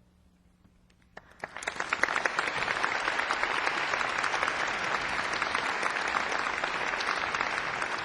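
A church audience applauding after a choir and string orchestra piece ends: a moment of quiet, then the clapping starts about a second in, builds quickly and holds steady.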